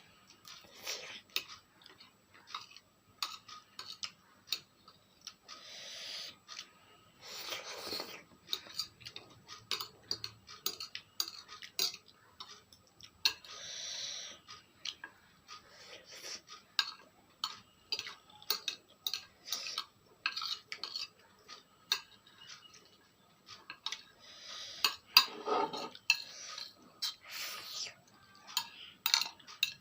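Close-up eating of spicy instant noodles: many sharp clicks of a utensil against the bowl, with several bursts of noodle slurping about a second long.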